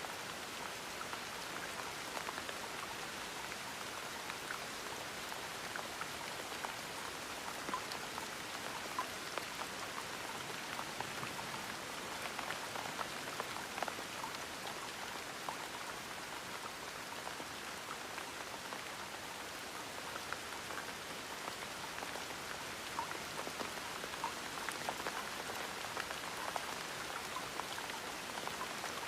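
Gentle rain falling steadily, with scattered individual drops ticking through the even hiss.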